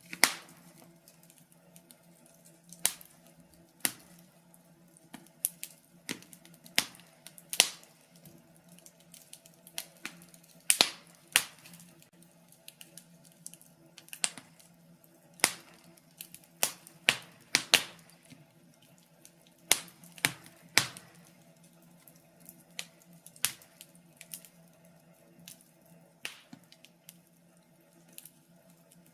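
Wood fire crackling: irregular sharp pops and snaps, sometimes several close together and sometimes a few seconds apart, over a faint steady low hum.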